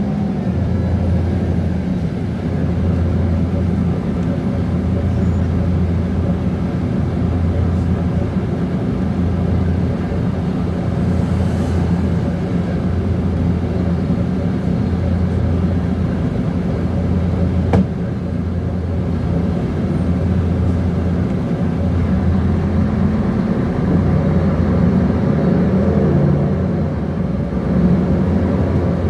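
Mercedes-Benz OM457LA inline-six diesel engine of a Conecto G articulated bus running with a steady low drone that rises and falls a little. A single sharp click comes about eighteen seconds in.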